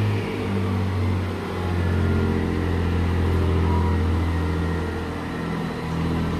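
Passenger train running along the line through the station, a loud steady low drone with a few shifts in pitch over rail and wheel noise.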